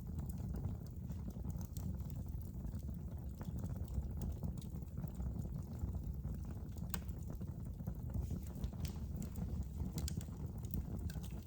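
Wood fire burning in a fireplace: a steady low rumble of the flames with scattered sharp crackles and pops every second or few.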